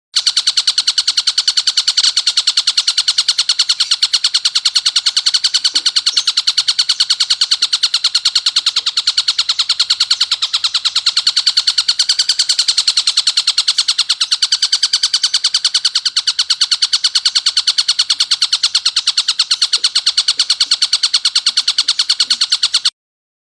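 Tengkek buto kingfisher giving its harsh, rasping call as a fast, even, unbroken chatter of rapid repeated notes. It cuts off abruptly near the end.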